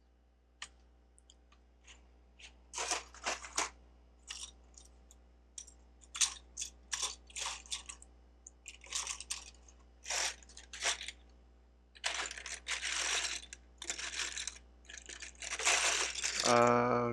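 Loose plastic Lego bricks clattering and clicking as hands rummage through and sort a pile of them: scattered short rattles, then a denser run of clatter toward the end.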